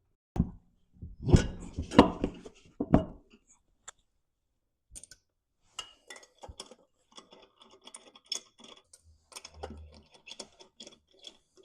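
Hand tools and parts knocking on metal: a few loud clanks in the first three seconds, then a long run of light, rapid clicking.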